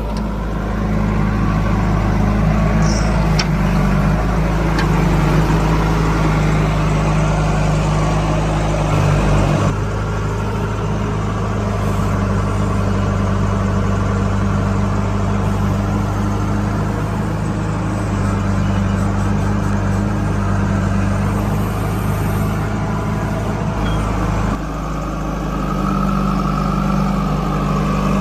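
Heavy diesel machinery engine running steadily, its sound shifting abruptly about ten seconds in and again near the end.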